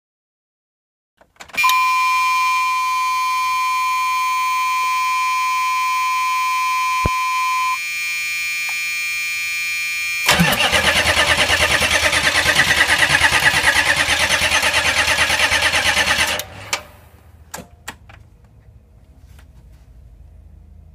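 A steady electronic tone for several seconds, then the starter cranking the Chevrolet Express's 6.5 turbodiesel V8 in an even, pulsing rhythm for about six seconds without it firing before cutting off. It will not start because no fuel is reaching the injectors.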